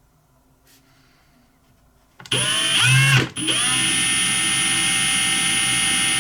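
Small electric drill with a fine bit starting up about two seconds in, its whine rising in pitch, then stopping for a moment and starting again to run at a steady high speed while drilling out a hole in a butane lighter to fit a stopper.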